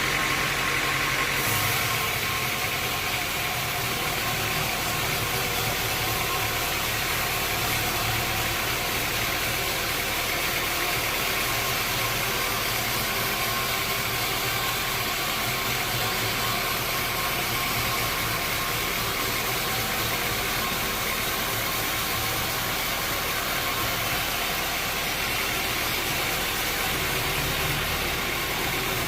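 Sawmill machinery running steadily: a continuous mechanical drone with hiss that never lets up.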